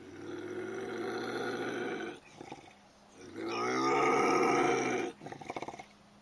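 An animal calling twice, two long pitched calls about a second apart, the second louder and wavering in pitch.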